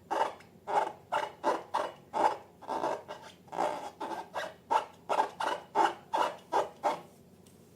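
Repeated rasping, rubbing strokes, about two or three a second, that stop near the end.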